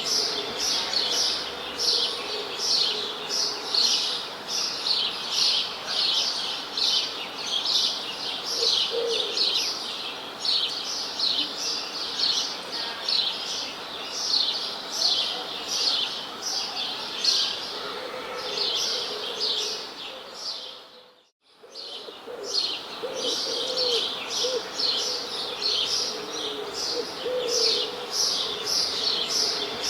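A chorus of birds chirping, a steady stream of short high chirps about two or three a second, with lower calls now and then. About two-thirds of the way through, the sound drops away almost to silence for a moment, then the chirping resumes.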